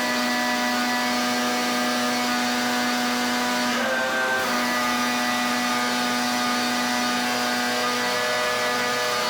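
Pressure washer running steadily: a constant motor hum under the hiss of the high-pressure water jet. The hum wavers and breaks briefly about four seconds in, then settles again.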